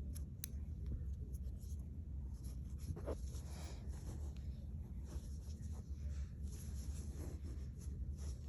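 Faint scratchy rubbing and rustling of yarn drawn through knitted i-cord stitches with a needle, with a few small clicks, over a low steady hum.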